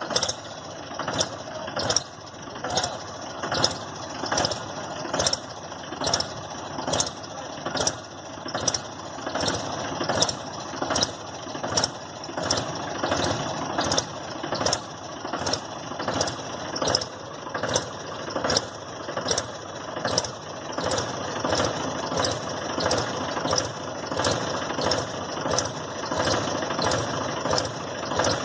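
Mahindra tractor engine running steadily, with a regular sharp knock a little more than once a second.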